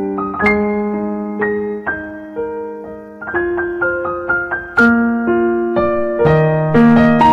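Background piano music: a slow melody of single and overlapping notes that ring and fade, growing fuller and louder in the second half.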